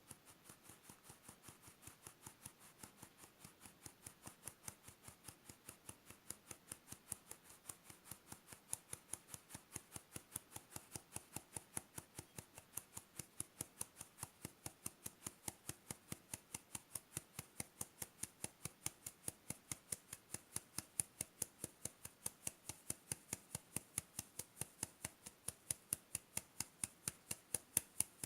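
Spatula scraping and slapping against a mixing bowl in quick, even strokes, growing louder: macaron batter being folded by hand (macaronage), meringue worked together with almond flour and powdered sugar.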